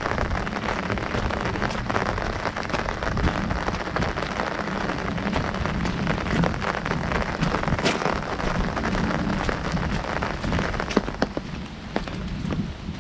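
Heavy rain falling on an umbrella overhead, a dense patter of drops. Near the end it thins to fewer, louder single drops.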